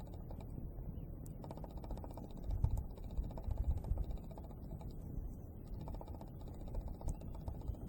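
Campfire crackling: irregular sharp pops and snaps over a low rumble.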